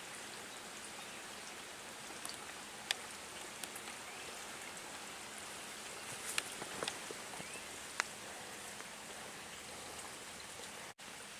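Steady light rain hissing, with a few individual raindrops ticking sharply close by.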